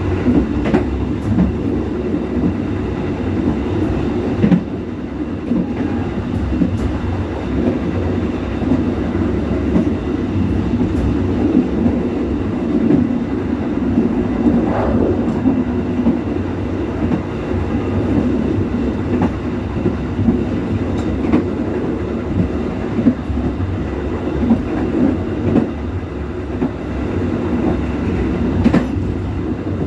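Commuter train running along the track, heard from on board: a steady low rumble with occasional sharp clicks of the wheels over rail joints.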